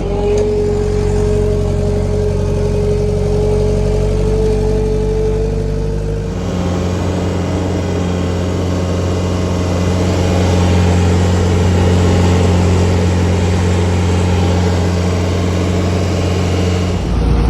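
An engine running steadily, with a whine that slowly rises in pitch over the first six seconds. About six seconds in, the sound changes abruptly to a heavier, louder engine note, which carries on to the end.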